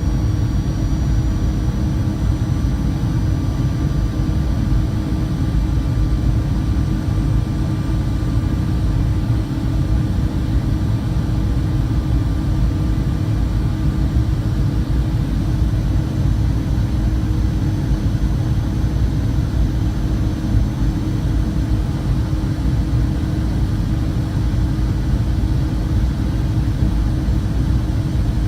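Jet airliner cabin noise: a steady low rumble of engines and airflow heard from inside the cabin, with a few faint, thin tones above it.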